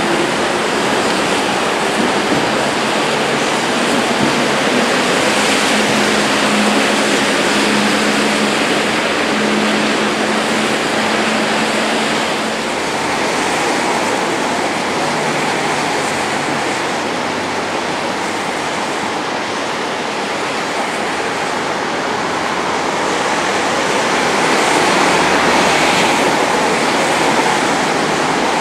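Heavy thunderstorm rain pouring down on an open-air metro platform and tracks as a steady, loud wash of noise. A faint steady hum under it stops about twelve seconds in.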